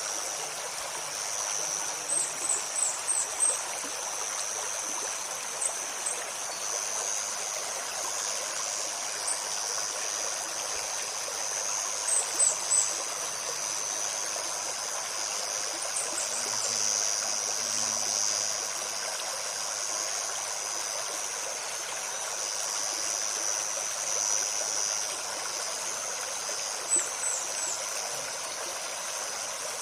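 A shallow forest stream babbling steadily over stones, with a high, steady insect drone under it. A small bird's very high, short chirps come in brief runs, clearest about two seconds in, around twelve seconds in and near the end.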